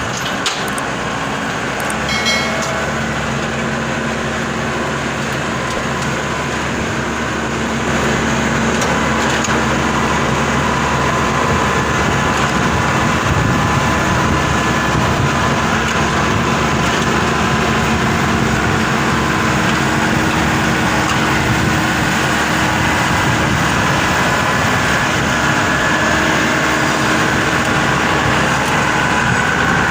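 Maxxi Bimo 102 combine harvester's diesel engine running steadily, getting louder about eight seconds in.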